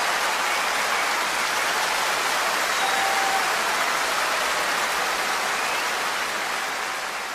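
Large concert audience applauding, with a few brief whistles over the clapping. It starts fading out about six seconds in.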